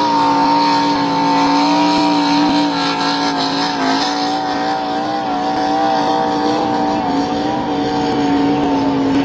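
A NASCAR Truck Series race truck's V8 engine held at steady high revs during a post-race burnout, its pitch wavering only slightly, with the hiss of spinning rear tyres.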